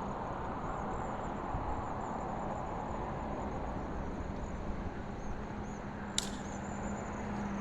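A single sharp snap of a slingshot being shot, about six seconds in, over steady outdoor background noise.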